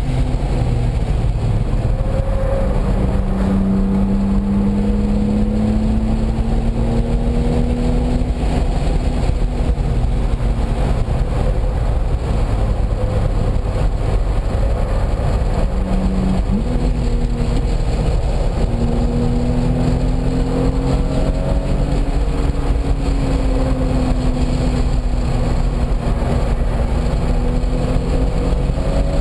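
Car engine being driven hard on a race track, its note rising and falling with throttle and gears, with a sudden drop in pitch a little past halfway. Loud, constant wind and road rumble underneath.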